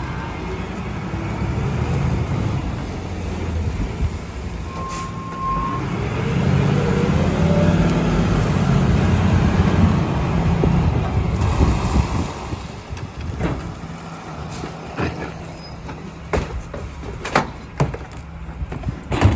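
Garbage truck engine revving up for several seconds while the hydraulic packer runs, then settling back to idle. Scattered sharp clanks and knocks follow near the end, with a brief high beep shortly before the revving.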